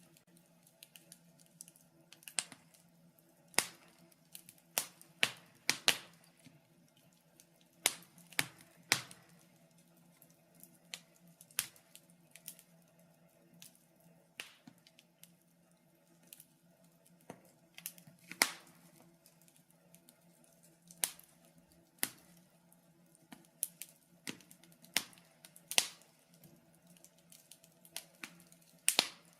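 Wood fire crackling in a fireplace: irregular sharp pops and snaps, a loud one every second or two with smaller ticks between, over a faint steady hum.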